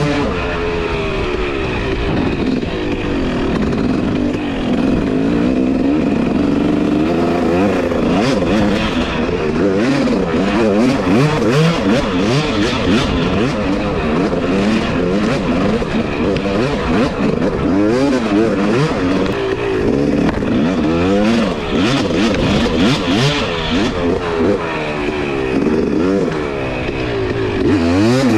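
Two-stroke dirt bike engine being ridden hard, its pitch climbing and dropping again every second or two as the throttle is opened and shut, with frequent short knocks over the top.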